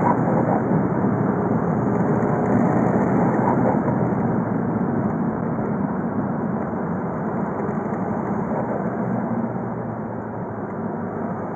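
Volkswagen Golf Mk5 2.0 TDI (BKD) four-cylinder turbodiesel running while driving, a steady engine sound that gradually grows quieter over about ten seconds.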